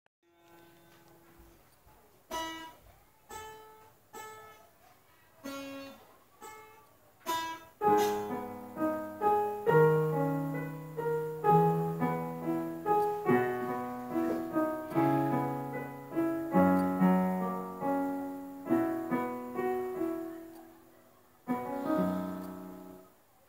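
Solo piano playing a slow, gentle melody: a few separate notes spaced out at first, then from about eight seconds in a fuller passage of melody over held chords, ending on a last chord that dies away.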